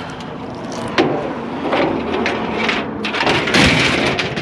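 Scrap items being handled and loaded: a sharp bang about a second in, then irregular knocks and clatter, and a louder stretch of scraping and rattling near the end.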